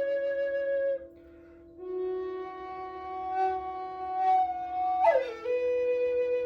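Flute music: slow, long held notes over a steady drone. One note ends about a second in, a higher note is held for about three seconds, then the pitch slides quickly down into a lower held note.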